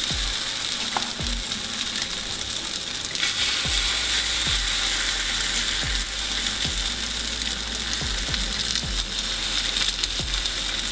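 Grated zucchini and egg batter sizzling in hot olive oil in a frying pan, with a metal spoon spreading and scraping through it. The sizzle grows louder about three seconds in.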